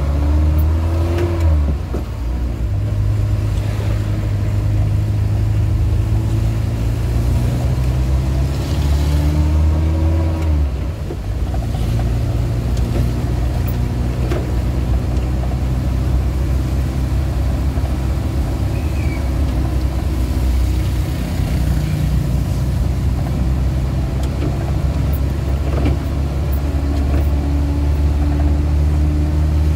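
Suzuki Carry 1.0's engine heard from inside the cab on the move, its note climbing and then dropping at gear changes about two seconds in and again about ten seconds in. A steady hiss of heavy rain and wet road runs underneath.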